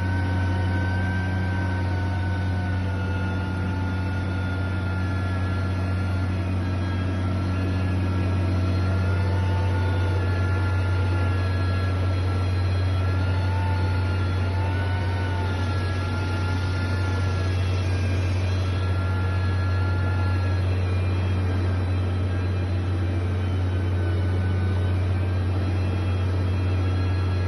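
Heavy construction machinery engine running steadily with a strong low hum and faint, wavering whining tones above it.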